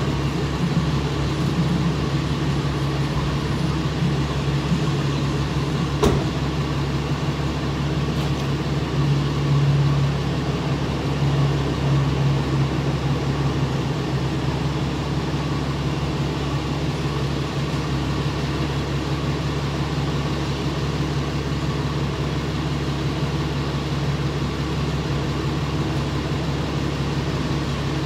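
A vehicle engine running in a steady drone, with a single sharp click about six seconds in.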